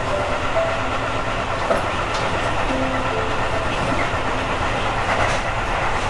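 Electric commuter train running on the Tobu Urban Park Line, heard from inside the front car: a steady rumble of running noise with a few sharp clicks of the wheels over rail joints. A faint tune of short rising notes repeats under it.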